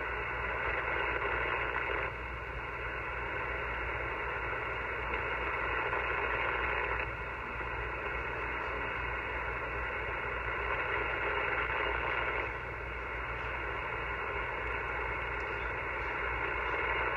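Power-line interference heard through a Flex-1500 radio receiver: a steady harsh buzzing hiss that fills the receiver's audio and swells louder and softer every few seconds. It comes from a utility pole and is the kind of noise that makes weak signals very hard to receive.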